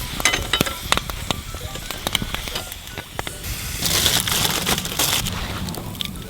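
Wood campfire crackling with many sharp pops, and a spell of sizzling hiss from food cooking over it from about three and a half seconds in.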